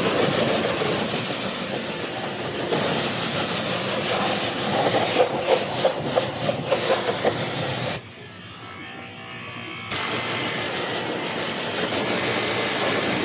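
Water spraying hard onto a truck as it is washed: a steady hiss. It drops off suddenly about eight seconds in and comes back two seconds later.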